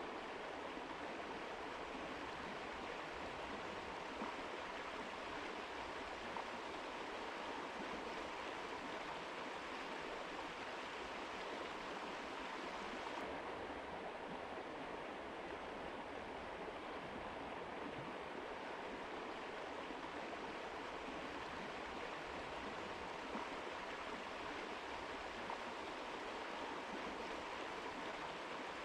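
Mountain river water flowing in a steady, continuous rush. The highest hiss thins a little about thirteen seconds in.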